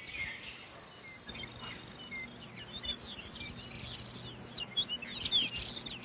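Birds chirping: many short, quick calls, busier in the second half, over a faint steady low hum.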